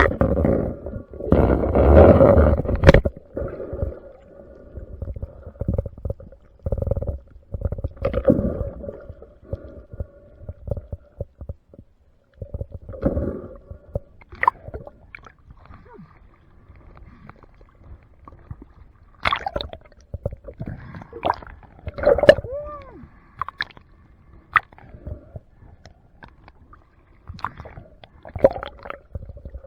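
Underwater sound of a spearfishing dive: loud bursts of gurgling bubbles, the biggest a couple of seconds in, with scattered sharp clicks and knocks over a faint steady hum.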